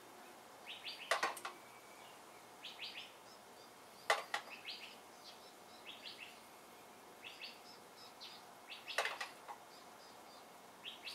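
Small birds chirping in short repeated calls, with a few sharp clicks.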